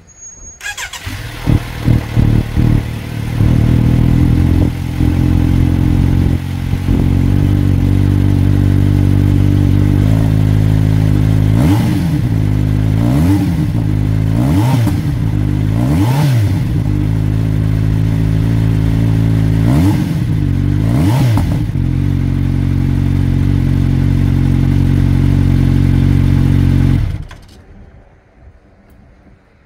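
Kawasaki Z900RS inline-four engine running without its stock silencer: it starts about half a second in, settles into a loud idle, is blipped six times in short revs in the middle, then is switched off and cuts out sharply a couple of seconds before the end.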